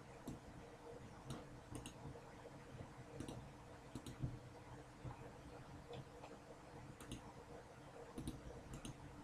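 Faint, scattered sharp clicks, some in quick pairs, over a low steady hum.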